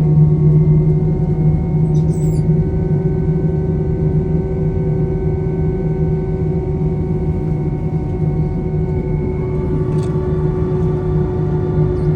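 Steady drone inside an Airbus A321 cabin on the ground: a low hum with several steady whining tones over it, one tone shifting slightly about ten seconds in, and a couple of faint clicks.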